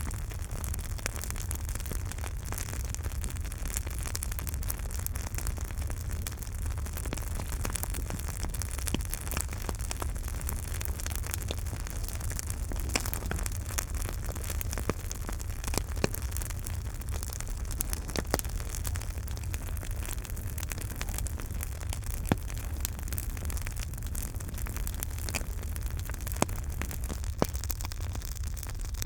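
Campfire burning: a steady low rumble and hiss of the flames with frequent small crackles of the burning wood and a few sharper pops scattered through.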